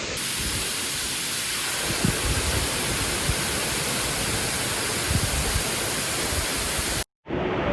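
Steady, loud roar of a waterfall heard close up. It cuts out for a moment about seven seconds in, then carries on.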